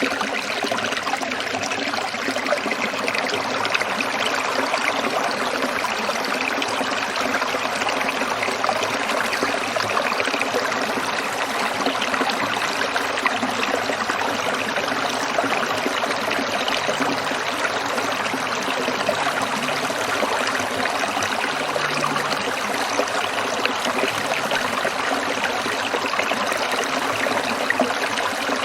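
Stream water trickling and splashing over stones, a steady, continuous babble.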